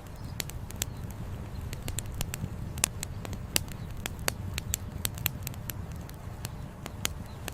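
Wood fire crackling, with irregular sharp pops and snaps several times a second over a steady low rush.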